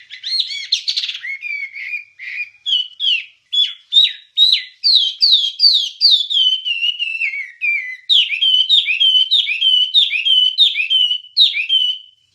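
Wambie songbird singing a continuous run of clear whistled notes, most sliding down in pitch, repeated in quick series of about two to three notes a second.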